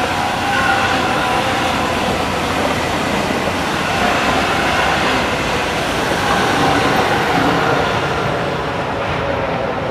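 ICE high-speed train passing close by, a loud steady rush of wheels on rail with a faint whine in it; the hiss thins out near the end as the train moves away.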